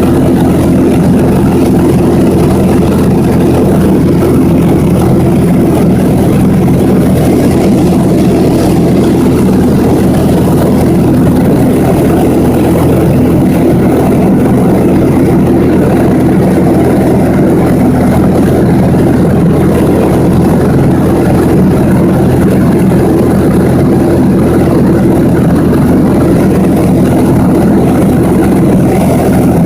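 Loud, steady drone of a small airplane's engine and propeller in flight, heard from inside the cabin, with several low tones held constant.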